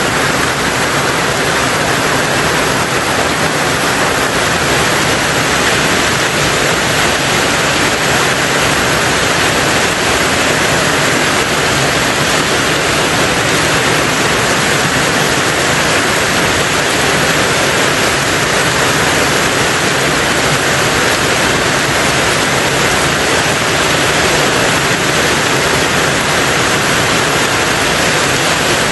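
Rain falling steadily on a tin roof, an even, dense hiss that does not change.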